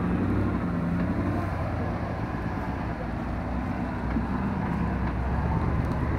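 Land Rover engine running at low, steady revs as the vehicle crawls slowly over rough ground.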